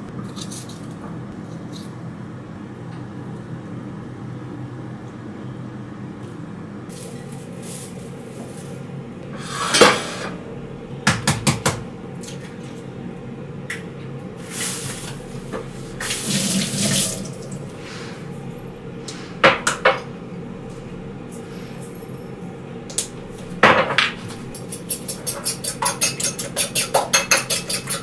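Kitchen breakfast preparation at a sink: water running from the tap, with dishes and cutlery clinking now and then. Near the end a utensil strikes a dish rapidly and rhythmically, several strokes a second.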